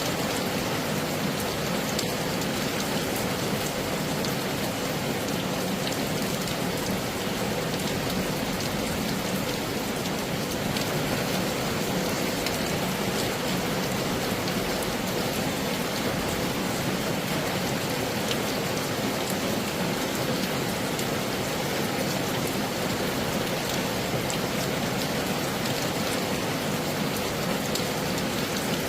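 Heavy rain falling steadily: a dense, even hiss with countless small drop hits ticking through it.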